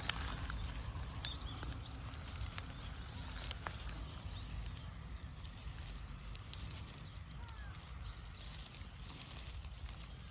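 Quiet outdoor ambience: a low steady rumble with a few faint clicks, and a few short, faint bird chirps about seven seconds in.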